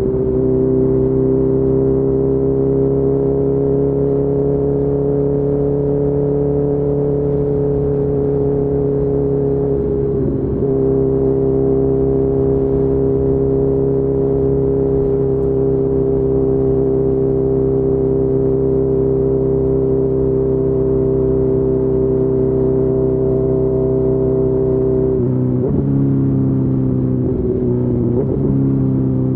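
2019 Honda CB1000R's inline-four engine through a full Akrapovic exhaust, running at a steady cruise with a brief gear change about ten seconds in. Near the end the engine note drops and breaks a few times as it shifts down.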